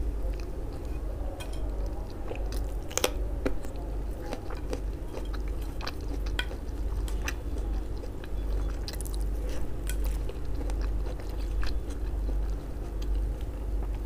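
Close-miked chewing of a mouthful of flatbread, with frequent short, sharp mouth clicks and a steady low hum underneath.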